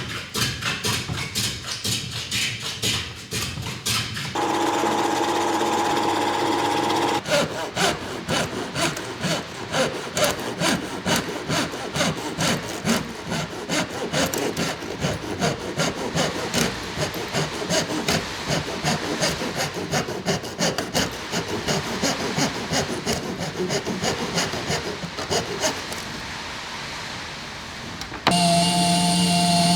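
Repeated back-and-forth hand strokes on wood, about three a second, like a hand saw or a stiff brush working the cedar. A steady hum breaks in a few seconds in, and a louder steady tone sounds near the end.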